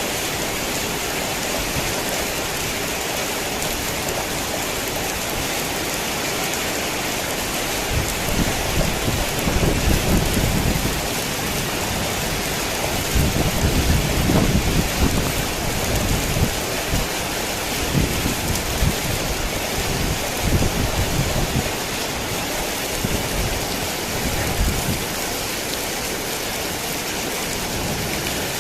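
Heavy rain falling in a steady hiss. Low rolling thunder rumbles under it through the middle, swelling strongest twice before fading.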